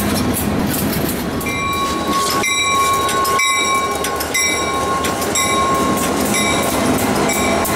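Freight train passing close by: covered hopper cars and then an EMD SD40M-2 diesel locomotive roll past, wheels clicking over the rail joints. A steady high tone sounds through the middle of it.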